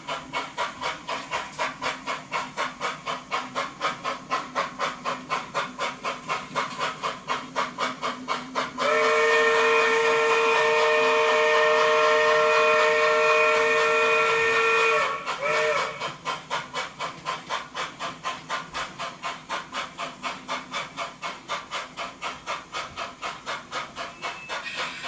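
Model steam locomotive's sound unit chuffing steadily, about four beats a second. About nine seconds in a long chime-whistle blast of several tones sounds for some six seconds, followed by a short toot, then the chuffing runs on.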